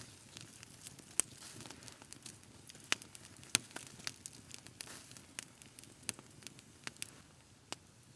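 Campfire crackling: irregular sharp pops and snaps over a faint hiss, the loudest pops a few seconds in.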